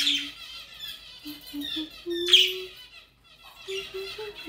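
Budgerigars chattering and warbling, with sharp chirps standing out right at the start and again about two seconds in.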